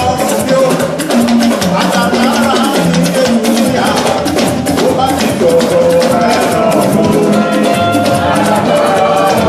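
Live church band music with a steady drum and shaker beat under a stepping bass line, with singing over it.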